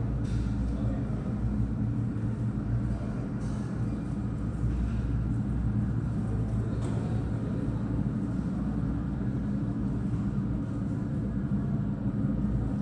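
Boeing 777-300 airliner taxiing, its jet engines at low thrust giving a steady low rumble with a hum of low tones.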